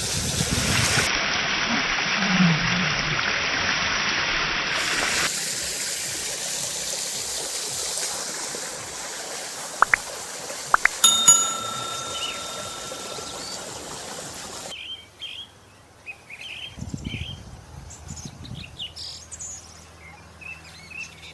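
Tubewell water gushing and splashing, loud for the first five seconds and then fainter. A few sharp clicks and a short ringing tone come about ten to eleven seconds in, and after a sudden drop the last six seconds hold only bird chirps over quiet background.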